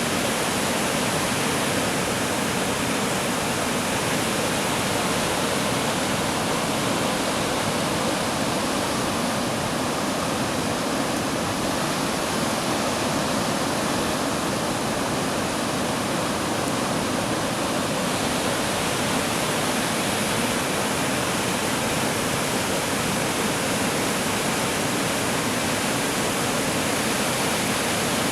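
Pyoutan Falls, water pouring over a concrete erosion-control dam, rushing in a steady, unbroken roar.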